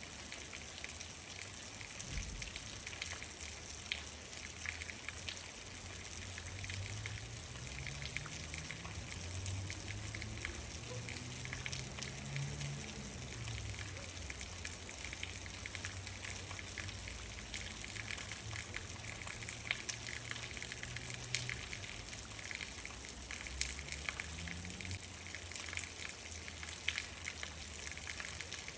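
Steady rain falling, a constant hiss with many individual drops ticking on a surface. A faint low drone rises and falls in pitch under the rain for several seconds around the middle and briefly again near the end.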